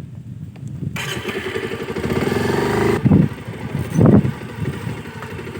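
Motorcycle engine running. It gets louder about a second in, with two short, louder bursts past the middle.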